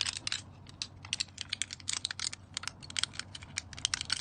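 Small plastic vape pods and their caps being handled: a quick, irregular run of light plastic clicks and taps.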